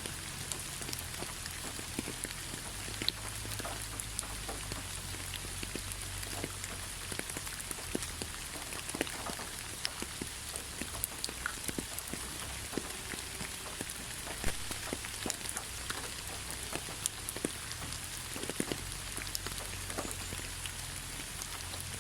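Steady rain falling, a continuous hiss with many close individual drops pattering on a surface, over a low steady rumble.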